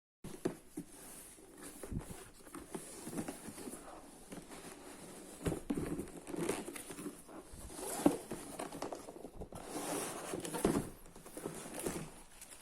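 Sneaker packaging being handled: paper and plastic crinkling and rustling, with scattered taps and knocks, the sharpest about eight seconds in.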